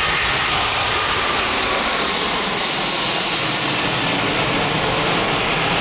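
Airbus A380's four jet engines at takeoff power: a loud, steady roar of jet noise with a faint high whine running through it.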